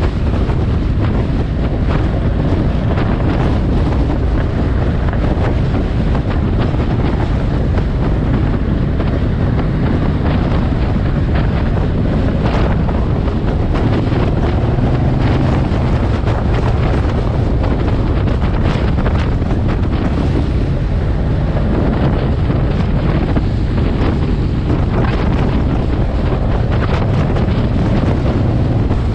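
Suzuki M109R's V-twin engine running steadily under way, heavily buffeted by wind noise on the microphone.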